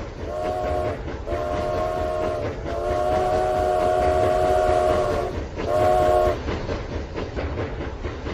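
Toy train's electronic steam-whistle sound effect: four chord-like blasts, the third and longest lasting about two and a half seconds, the last one short. Under the whistle runs a steady rattle of wheels clicking over plastic track.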